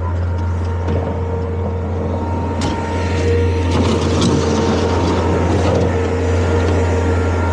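Bobcat skid-steer loader's engine running steadily under the operator, with one sharp knock about two and a half seconds in.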